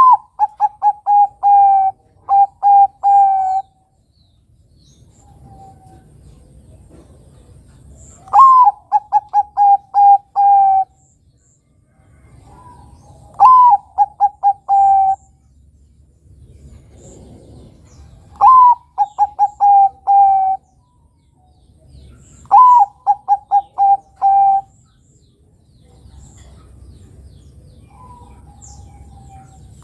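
Bangkok-type zebra dove (perkutut) cooing: five song phrases a few seconds apart. Each phrase is one rising-and-falling note followed by a quick string of short, slightly lower coos.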